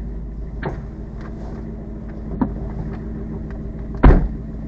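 Mustang GT's Coyote V8 idling, heard inside the cabin, while the manual short-throw shifter is worked. Three knocks from the shift lever, the last and loudest near the end, as it fails to get past the reverse lockout.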